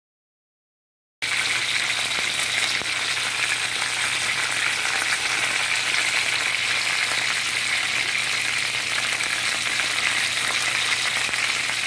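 Chicken breast pieces frying in hot oil in a cast-iron skillet: a loud, steady sizzle that starts abruptly about a second in, after silence.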